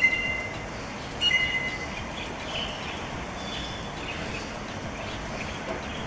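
Drongo calling: two short whistled notes, the second about a second after the first, each holding two steady high tones, followed by fainter chirps over the steady hiss of an outdoor recording.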